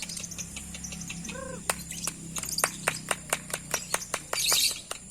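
Lovebirds singing: a fast run of sharp, high chirps, about four or five a second from about two seconds in, with a burst of dense high chattering near the end. A faint steady low hum lies under it.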